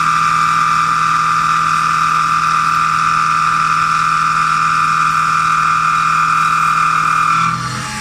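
Machine tool running with a steady high whine over a lower hum; the whine falls away about seven and a half seconds in while a quieter hum carries on.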